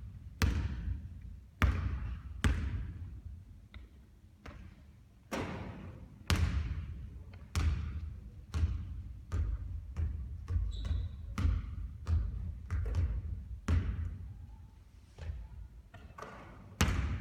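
Basketball bouncing on a court floor during three-point shooting practice: irregular thuds about once a second, each with a short echoing tail.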